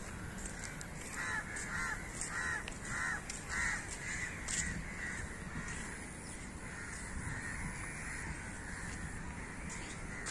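A bird calling repeatedly: a run of about five calls a little over half a second apart, starting about a second in, then a few fainter calls later.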